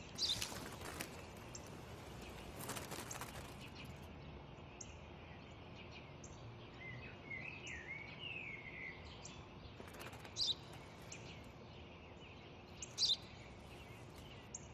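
Small birds chirping: short high chirps every few seconds, the loudest a brief pair near the end, with a short warbling phrase midway, over a faint steady outdoor background.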